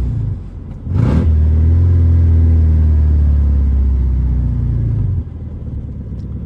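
Straight-piped four-cylinder engine of a BMW E36 droning loudly under load, with a brief dip in level about half a second in and a short sharp burst just after a second in. A little after five seconds the drone drops abruptly to a much quieter running.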